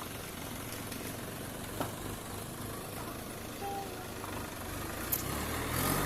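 Diesel tractor engine running at idle. About four and a half seconds in it grows louder and its pitch rises, with a few faint clicks along the way.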